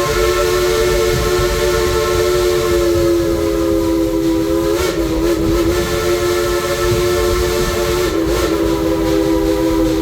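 Steam whistle of narrow-gauge locomotive Engine 192, 'Klondike Katie', blowing one long chime chord that wavers briefly about five seconds in and again near eight seconds, over the low rumble of the moving train.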